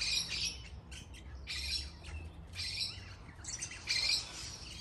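Caged aviary birds calling: short, high chirping calls in bursts about once a second, from several birds.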